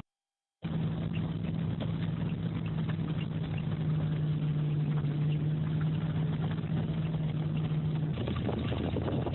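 An engine running steadily with a constant low hum, after a brief cut to silence at the start; the hum drops away about eight seconds in, leaving the engine noise.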